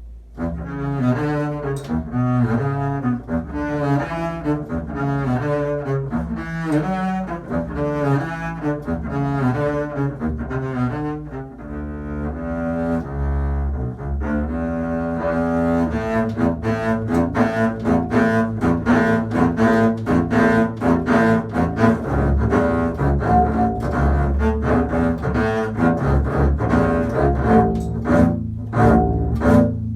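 Unaccompanied double bass, bowed, playing an audition excerpt in distinct detached notes. The notes begin just after the start, and the line becomes faster and busier about halfway through.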